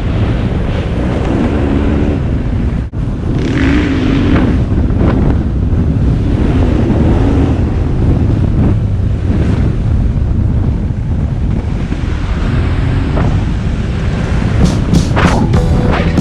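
KTM 790 Adventure parallel-twin engine running while riding, heavily buffeted by wind noise on the microphone. There is a brief dropout about three seconds in, and a quick run of sharp clicks near the end.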